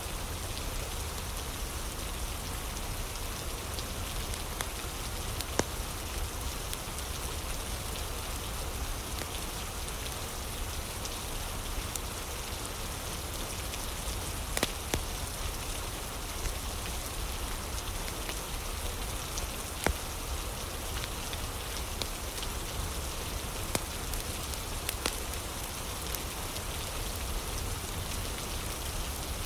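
Steady rain ambience with a crackling fire: an even hiss of rain, broken by occasional sharp pops a few seconds apart.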